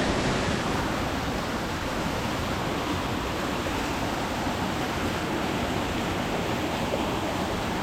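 Small jungle waterfall: water falling and splashing as a steady rushing hiss.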